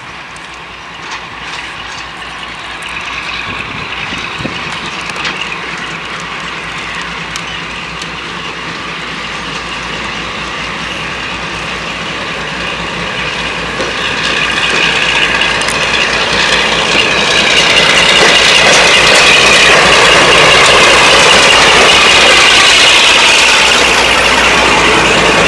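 Train on a heritage railway running, with the clatter of wheels over the rails and a high ringing edge. It grows steadily louder for about the first eighteen seconds, then holds loud.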